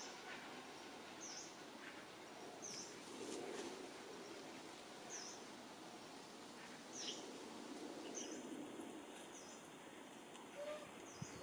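A bird repeats a short, high chirp every one to two seconds over faint outdoor ambience. A steady thin high whine starts about eight seconds in.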